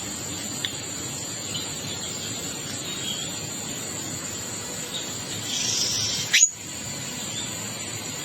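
Wild birds giving scattered short chirps over a steady high-pitched background tone. A fast rising whistle, louder than the rest, comes about six seconds in, followed by a sharp blip and a brief cut-out.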